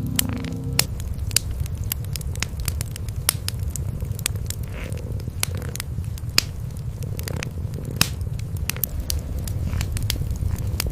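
Cats purring in a continuous low rumble, over a wood fire crackling in a fireplace with frequent sharp pops.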